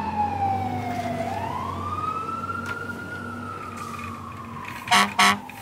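Fire truck siren wailing, its pitch sliding slowly down, then up, then down again, over a low steady hum. Two short loud blasts near the end.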